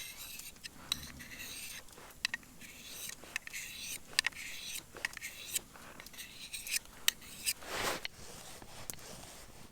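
Irregular scraping strokes mixed with sharp clicks and knocks, with a longer, fuller rasp about eight seconds in.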